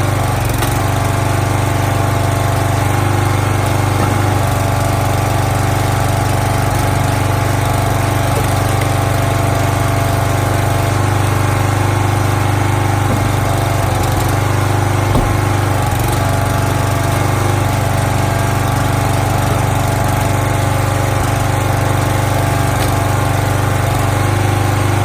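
Small gasoline engine of a firewood log splitter running steadily at a constant speed, with a single brief knock about fifteen seconds in.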